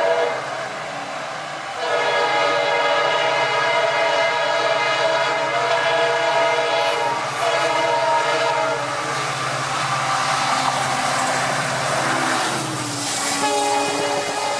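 Indian Railways train horn: a short blast at the start, then a long steady blast lasting about seven seconds, over the rumble of the train. Near the end, a rush of noise builds and a lower horn tone sounds.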